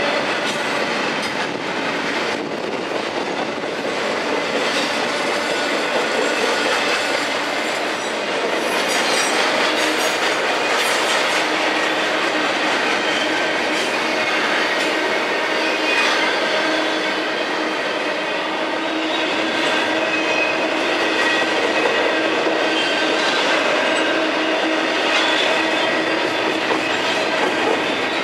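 Freight train cars rolling past steadily, wheels clicking over rail joints, with thin steady squealing tones from the wheels on the rail.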